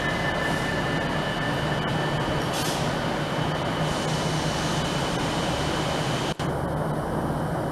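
Train running through the station: a steady rumble of engine and wheels with a thin high whine over it. The sound breaks off suddenly about six seconds in, and a steadier, duller rumble follows.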